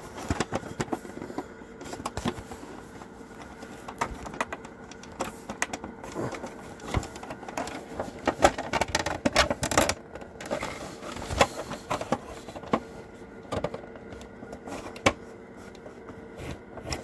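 Plastic parts of a Mattel Space 1999 Eagle toy being handled and fitted, giving irregular clicks, taps and knocks, some louder than others.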